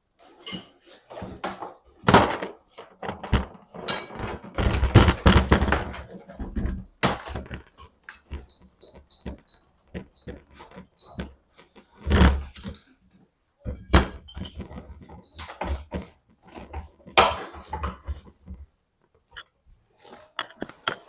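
Irregular clinks, knocks and clatter of hand tools against the metal body of an AD-9 truck air dryer as its small screws are worked loose, with a few louder knocks scattered through.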